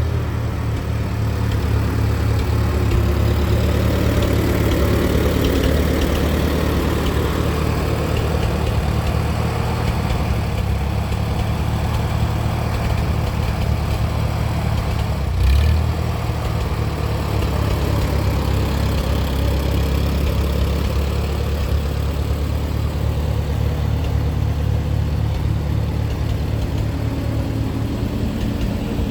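Allis-Chalmers farm tractor engine running steadily at low speed, with one brief thump a little past halfway.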